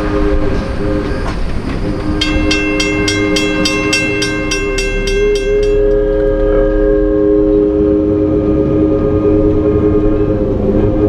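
Diesel locomotive's multi-chime air horn blowing a long chord, with a short break about two seconds in. The locomotive bell rings at about three strokes a second for around four seconds over the horn.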